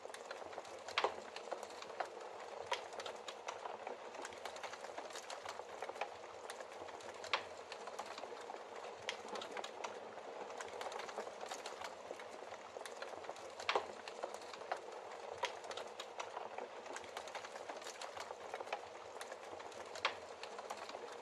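Wood logs burning in a fireplace: a steady rushing hiss of flame with irregular crackles and pops, a few of them sharper and louder, about a second in and near the middle and end.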